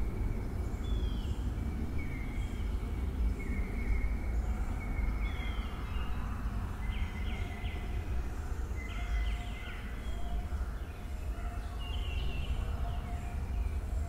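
Outdoor nature ambience: birds calling in short chirps and downward-sliding notes every second or so, over a steady low rumble.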